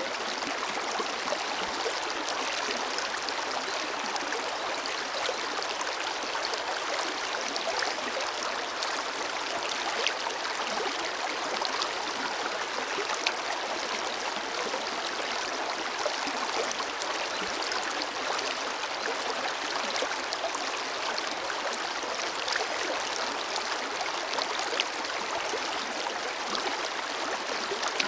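Forest river flowing steadily over rocks, a continuous rushing and splashing with small droplet ticks and little low rumble.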